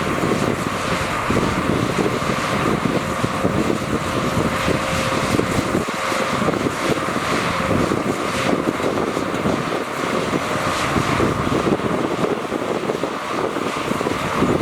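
Heavy diesel earthmoving machinery running steadily, with a dense low rumble and a faint steady whine.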